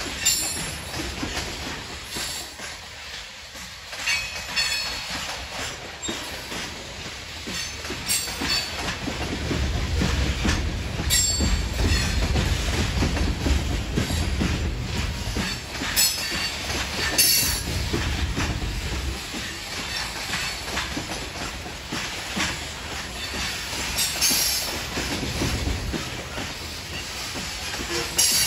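Loaded coal hopper cars of a freight train rolling past: a continuous low rumble of steel wheels on rail that swells in the middle, with sharp clacks and short high wheel squeals now and then.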